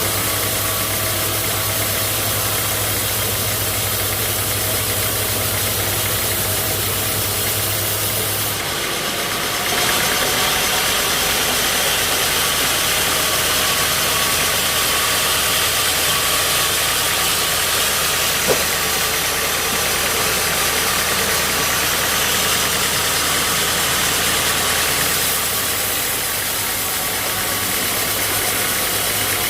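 Sawmill machinery running steadily with an engine note. Its sound shifts about nine seconds in, growing slightly louder and hissier, then eases back near the end. A single sharp click comes about halfway.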